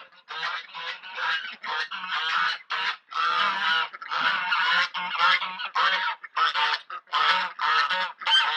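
Domestic geese honking, a steady run of short calls about two or three a second.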